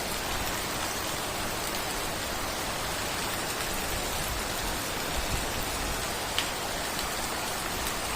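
Steady rain falling, an even hiss of rain on surfaces, with one light tap about six seconds in.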